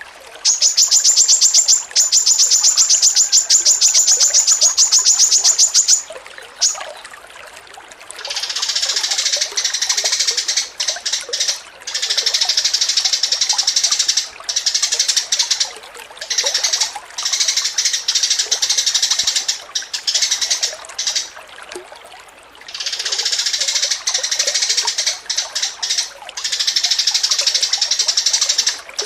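Songbird song: a rapid, evenly paced high trill for about five seconds, then phrases of fast, continuous high chattering song broken by short pauses.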